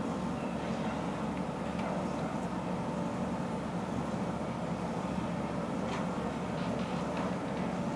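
A large truck's engine running steadily, low-pitched and unchanging.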